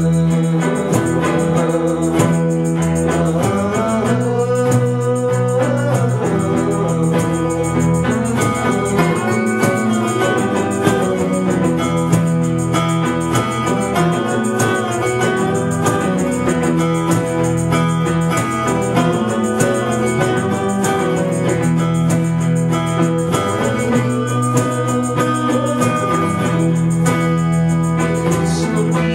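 Rock band playing live: guitar-led blues rock over steady bass notes.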